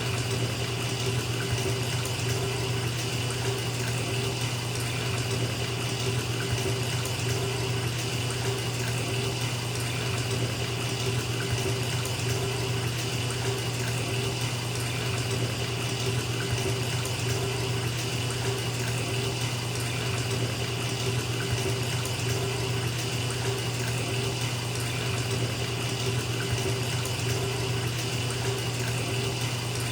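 Bathtub tap running steadily into a filling tub, a constant rush of water with a low hum underneath.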